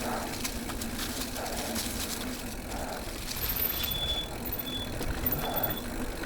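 Full-suspension e-mountain bike riding along a dirt trail: tyre noise and clicks and rattles from the bike over the ground, with a steady low hum underneath.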